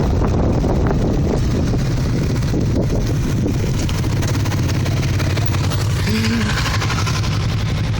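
Motorcycle engine running steadily, with a short tone about six seconds in.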